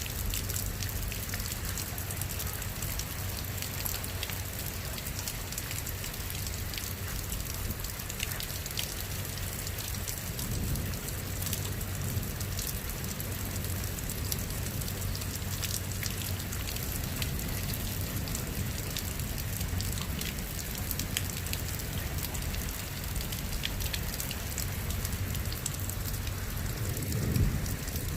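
Steady rain falling on surfaces, with the patter of individual drops. A low rumble swells about ten seconds in and again near the end.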